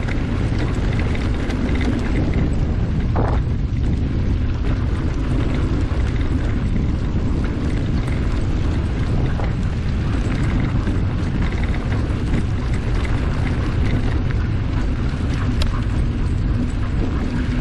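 Steady low rumble of wind and motion noise on the microphone while riding along the trail.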